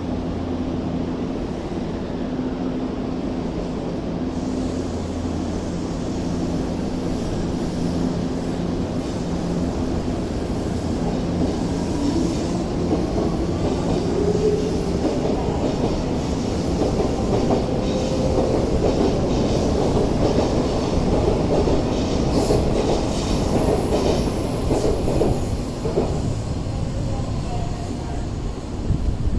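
Electric commuter trains at a station: a steady low electric hum, then a motor whine that rises in pitch as a train accelerates. Later come a string of wheel clicks over the rails.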